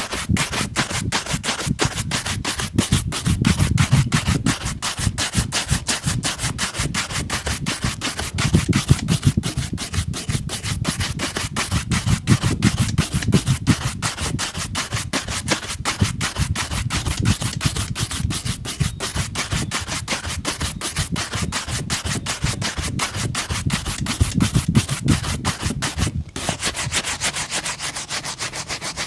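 Brush scrubbed fast back and forth over a leather boot, in steady, even strokes with a brief break near the end.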